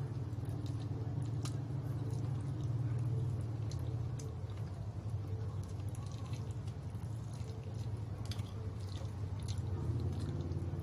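A person chewing and biting into fried chicken, with short wet mouth clicks and smacks scattered through, over a steady low background hum.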